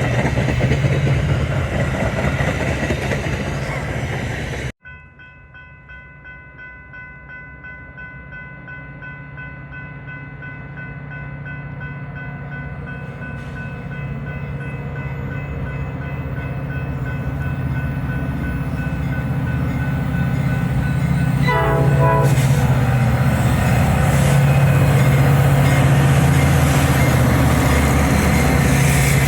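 A train running loudly, then, after a sudden cut, a steady repeating ringing while another train's rumble grows steadily louder as it approaches, with a short horn-like blast near the end.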